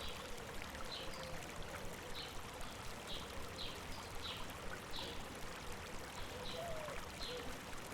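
A stream running steadily, with a small bird giving short, high chirps about once or twice a second.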